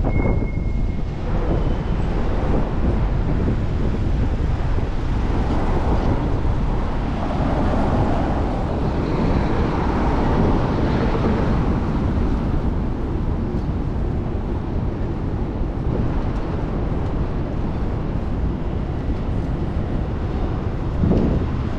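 Wind rushing over the microphone and city traffic noise while riding a bicycle, with the traffic swelling and fading about halfway through.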